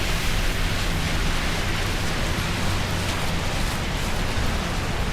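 Steady hiss of falling rain with a low rumble underneath, unbroken throughout.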